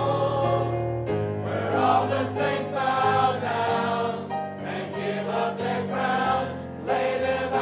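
Gospel music: choir voices holding chords over instrumental accompaniment, the chords changing every second or so.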